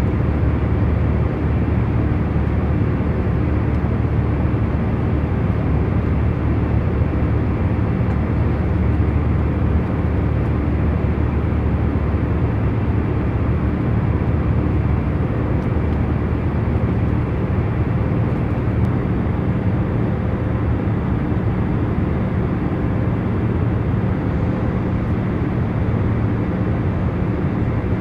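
Steady hum of an airliner cabin in cruising flight: an even, low-weighted noise with a few faint steady tones and no changes.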